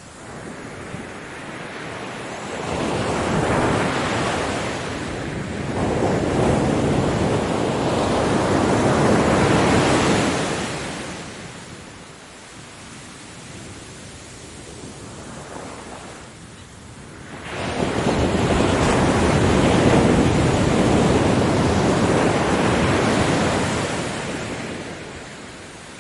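Ocean waves breaking on a beach. One wave swells in early and washes loudly for several seconds. After a quieter stretch of hissing surf, a second wave surges in about two-thirds of the way through and fades near the end.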